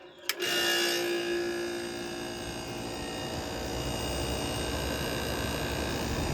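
Vintage window air conditioner switched on with a click, its fan and reciprocating compressor starting up at once and running with a steady hum. A low rumble builds over the last few seconds; the unit's fan blade is bent and out of balance.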